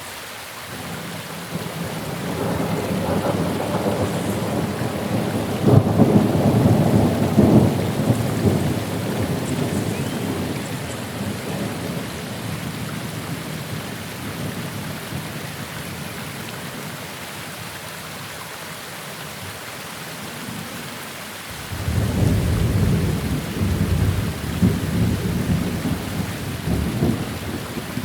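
Steady rain with two long rolls of thunder. The first builds soon after the start, peaks with sharp cracks, then fades away over several seconds; the second, lower rumble breaks in suddenly about three-quarters of the way through and rolls on to the end.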